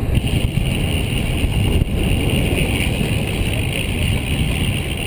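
Wind rushing over the microphone of a camera on a moving road bicycle: a loud, low, buffeting rumble, with a steady higher hiss of riding noise coming in just after the start.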